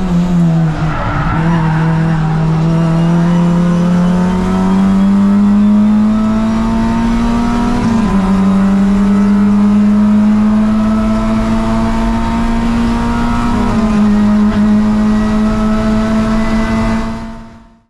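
Toyota Vios race car's 1NZ four-cylinder engine under full load, its pitch climbing slowly through the gears. It drops sharply at an upshift about eight seconds in and dips again near fourteen seconds, then fades out at the end.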